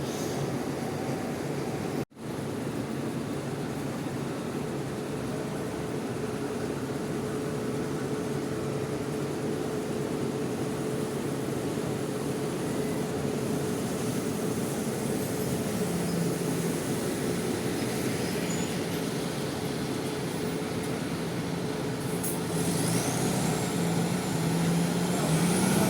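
Bus engines running steadily over a constant hiss, with a brief dropout about two seconds in. Near the end an engine's pitch climbs and the sound grows louder, as a bus revs up.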